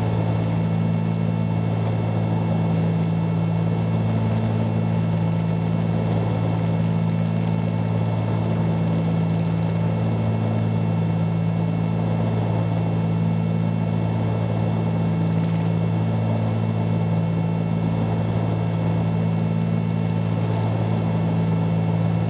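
Steady drone of a 1974 Cessna 310Q's twin piston engines and propellers in flight, heard from inside the cabin, with a deep multi-tone hum that holds constant throughout.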